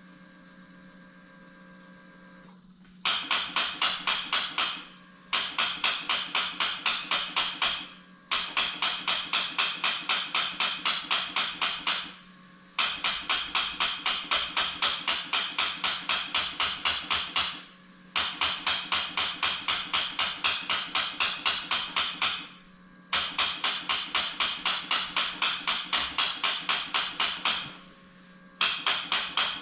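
Quad's electric starter cranking the engine in seven bursts of a few seconds each, with a fast rhythmic chugging of about six strokes a second, and the engine never catches. The owner suspects a weak battery is behind the no-start.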